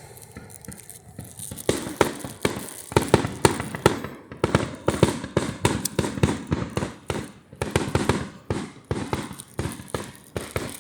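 Fireworks going off in quick succession: a rapid, irregular string of sharp bangs and crackles, several a second, that thickens after the first couple of seconds.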